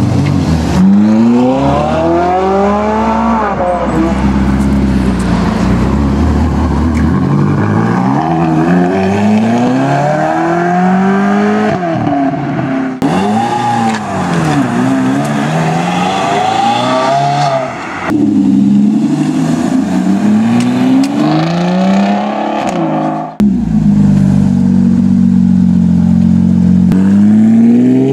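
Supercar engines accelerating hard, one after another, each note climbing in pitch as the car revs up through the gears. Several such runs follow in turn, with sudden switches between them.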